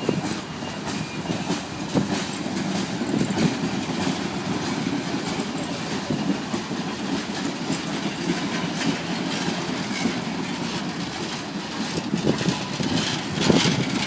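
The train of Nickel Plate Road steam locomotive 765 rolling past in a steady rumble, its wheels clicking over the rail joints, with a louder knock near the end.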